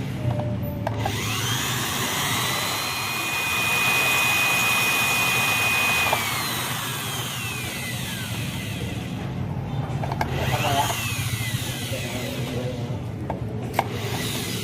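Small electric motor of a portable sewing machine being test-run: its whine rises as it speeds up, holds steady for a few seconds, winds down, then speeds up and falls away again briefly, with a sharp click near the end. It now spins freely after having been stuck.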